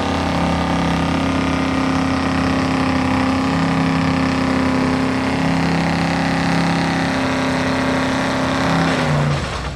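Stock pickup truck engines running hard at steady revs, more than one engine at a time. About nine seconds in, the main engine note drops sharply and the sound gets quieter, as a throttle lifts off.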